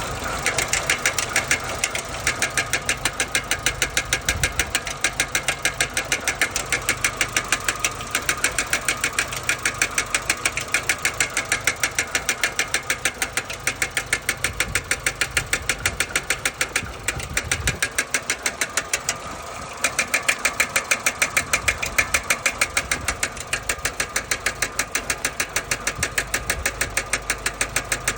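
Renault K7M 1.6-litre eight-valve four-cylinder engine running with a regular, rapid metallic tapping from its valve rockers: rocker knock.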